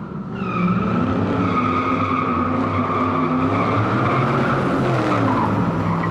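Car tires squealing in one long held screech over a running engine whose pitch drifts up and down. The sound cuts off abruptly.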